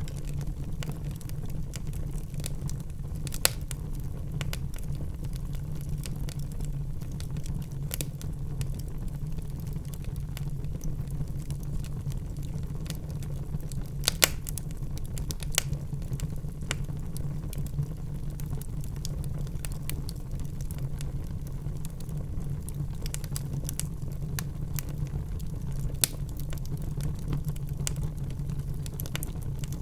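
Fireplace fire crackling: sharp, scattered pops every few seconds, the loudest about halfway through, over a steady low rumble.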